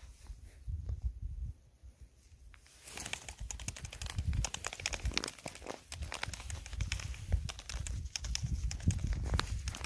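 Footsteps crunching through snow, a dense crackle of small clicks that starts about three seconds in after a quieter stretch, over a low rumble.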